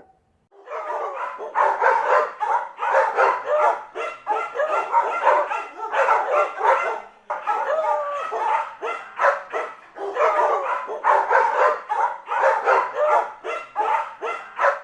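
Several dogs barking rapidly and overlapping, with some higher yips among the barks. The barking starts about half a second in and runs almost without a break, pausing briefly about halfway through and again about two thirds through.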